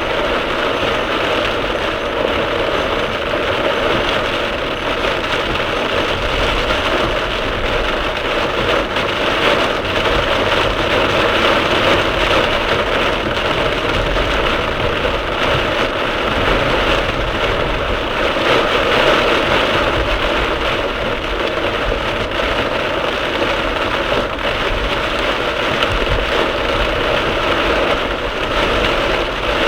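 Heavy downpour drumming on a moving car, recorded by a dashcam in the cabin: a loud, steady hiss of rain with the car's road noise underneath.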